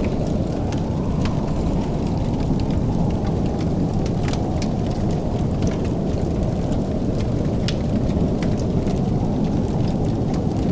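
Fire crackling: scattered sharp pops and snaps, a few each second, over a steady low roar.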